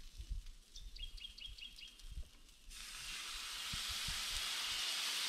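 Pre-cooked ribs heating in a pan as sauce goes on: a steady sizzle starts suddenly a little past halfway and keeps going. Before it, a few soft knocks and a quick run of faint high chirps.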